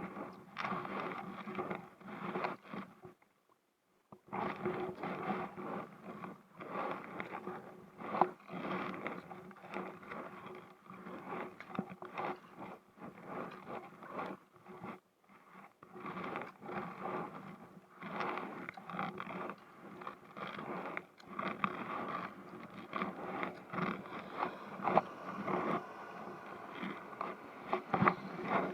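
Irregular scraping and rubbing with many small knocks close to the microphone, broken by about a second of near silence some three seconds in.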